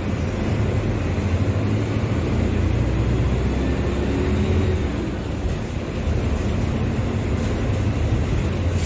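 Diesel engine of a Mercedes-Benz OF-1721 BlueTec 5 bus, a four-cylinder turbodiesel, running steadily with a deep low hum. Its level drops briefly about five and a half seconds in, then picks up again.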